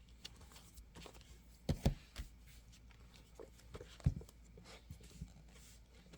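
Light handling sounds as plastic planner covers are picked up and moved on a tabletop: scattered soft clicks and rustles, with a couple of sharper knocks about two seconds in and again about four seconds in.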